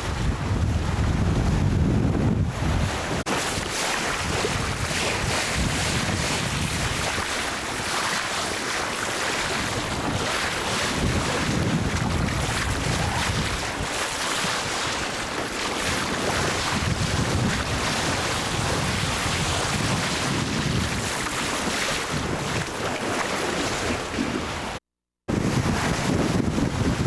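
Wind buffeting the microphone over the steady rush of sea water past a sailboat's hull as it sails under spinnaker, with the low buffeting heaviest at the start and end. A short dropout to silence comes near the end.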